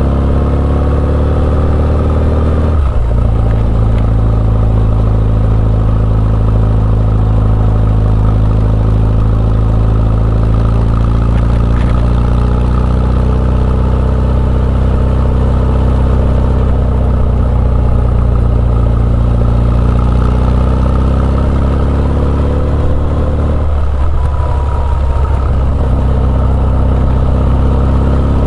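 Honda CB1100EX's air-cooled inline-four running through an Earl's Gear Wyvern Classic aftermarket exhaust: the revs climb, drop sharply on an upshift about three seconds in, then hold steady at cruising speed, with a brief dip in the throttle about four seconds before the end.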